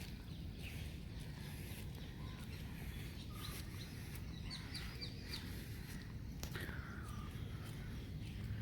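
Birds chirping in short scattered calls, with a quick run of high chirps about five seconds in, over a steady low outdoor rumble and scattered light taps.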